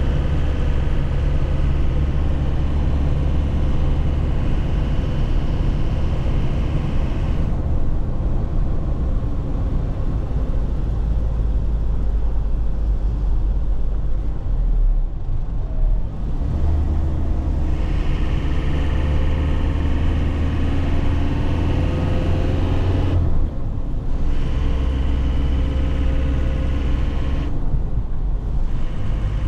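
2001 Nissan Cabstar's diesel engine running on the move, heard from inside the cab. Its sound drops off for several seconds a few seconds in, then twice more briefly later on, as the throttle is eased and picked up again, likely around gear changes.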